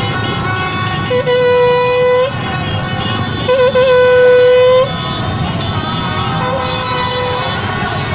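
Two long, loud horn blasts, each a little over a second, with a fainter blast near the end, over the steady din of a motorbike convoy's engines and a celebrating crowd.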